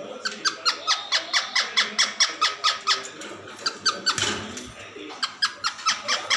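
Pet parrot making rapid, repeated high squeaky chirps, about five a second, broken about four seconds in by a brief noisy rustle.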